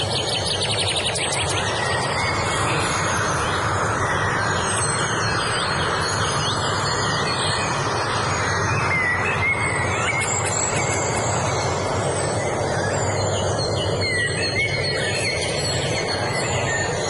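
Several songbirds singing, with short chirps, gliding whistled notes and a rapid trill about a second in, over a loud steady rushing noise.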